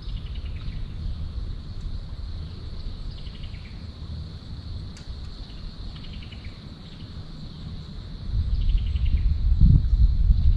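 Steady high-pitched insect trill with a short run of rapid chirps repeating about every three seconds, over wind rumbling on the microphone that gusts louder near the end.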